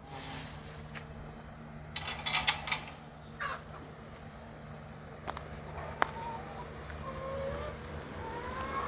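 Hens in a coop making soft, short calls, mostly in the second half, with several sharp clicks and a brief rattle a couple of seconds in, over a steady low hum.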